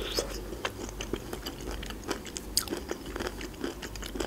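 A person biting and chewing a piece of pineapple close to the microphone: soft, irregular wet clicks and smacks.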